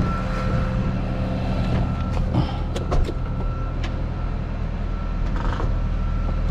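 Flatbed tow truck's engine idling steadily, with a thin high tone coming and going over it and a few short clicks and knocks partway through.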